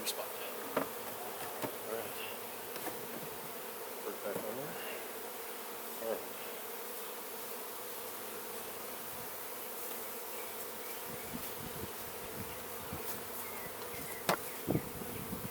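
Honey bees buzzing steadily around open hives. Two sharp knocks sound about a second before the end.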